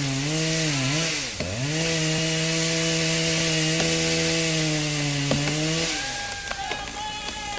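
A motor engine running hard with a buzzing note that wavers, dips briefly and picks back up about a second and a half in, then holds steady. Near the end it drops away and a higher whine glides in.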